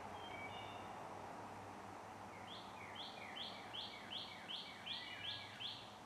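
A songbird sings a quick run of about nine identical repeated notes, between two and three a second. A few short, fainter notes come about half a second in. Under it runs a steady faint outdoor hiss with a low hum.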